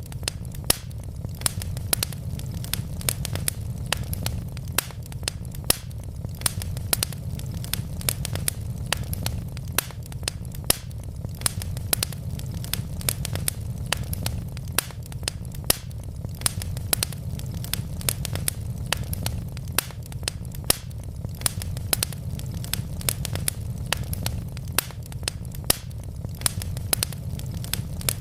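Burning wood logs in a fireplace crackling, with many irregular sharp pops and snaps over a low, steady rumble.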